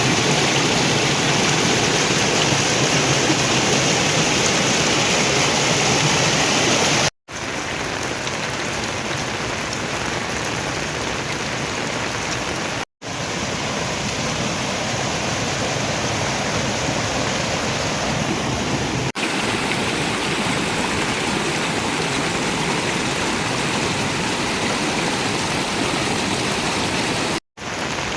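Steady rush of running water. It is broken by three brief drops to silence about 7, 13 and 27 seconds in, and its tone shifts slightly after each.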